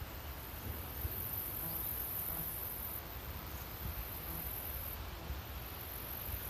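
Insects trilling in a high-pitched, steady drone that switches on and off in spells of about two seconds, with a low rumble underneath.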